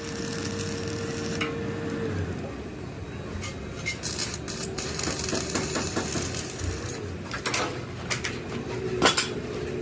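Metal parts and tools clanking and scraping, with several sharp knocks toward the end, over a steady machine hum.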